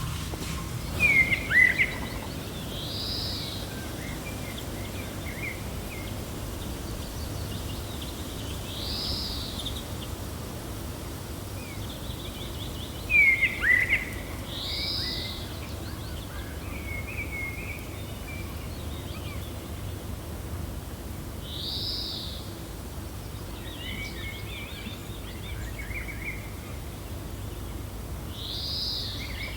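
Gentle wind blowing steadily with birds chirping over it: a short arched call repeating about every six seconds, and two louder bursts of sharp falling chirps, one near the start and one about halfway through.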